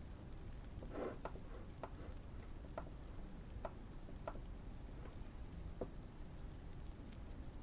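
Fire crackling in the background with fine high ticks, over which a handful of soft, deep key presses sound at uneven gaps from a Keychron Q1 mechanical keyboard modded with tape and foam for a thocky sound.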